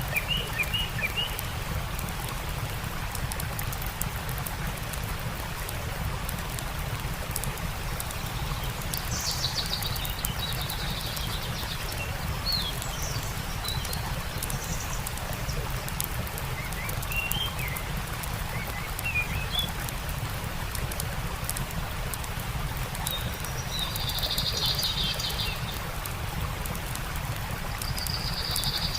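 Steady rushing of a stream, with small birds chirping and trilling in short phrases every few seconds, the longest buzzy calls about two-thirds of the way through and near the end. Faint scattered crackling runs underneath.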